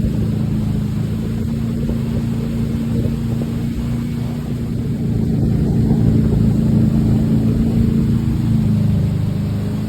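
Motorboat engine running steadily, a constant hum that dips slightly in pitch near the end.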